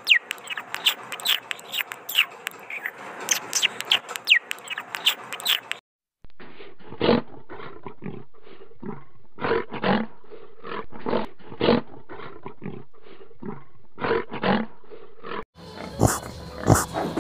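A quick run of high, falling chirps for about six seconds. Then, after a short break, a brown bear's growling roars come in separate calls about once a second. Near the end, piglets start grunting.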